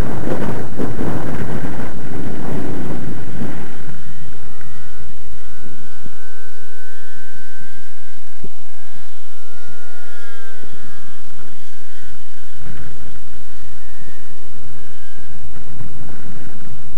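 Strong wind buffeting the microphone, giving way after about four seconds to the thin, steady whine of a model plane's ASP .61 two-stroke glow engine in flight. The pitch dips slightly around ten seconds. Wind noise covers it again from about twelve seconds.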